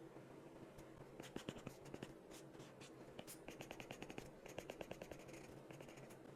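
Faint tapping and scratching of a pen or stylus while drawing, with scattered ticks and quick runs of rapid taps, about ten a second, in the middle.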